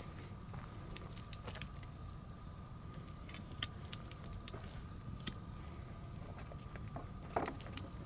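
Wood bonfire crackling, with scattered sharp pops, the loudest near the end, over a low steady rumble and a thin steady tone.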